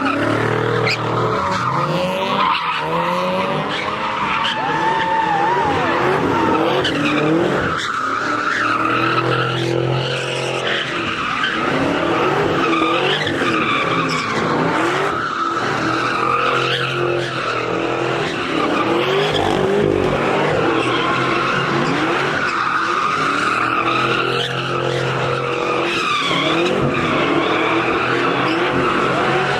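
Car tires screeching without a break as cars do donuts and drifts, the squeal wavering in pitch, with engines revving hard underneath.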